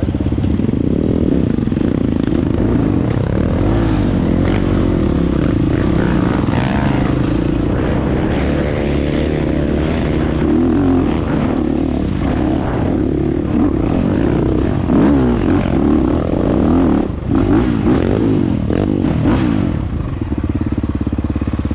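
Dirt bike engine running and revving, its pitch rising and falling over and over with the throttle.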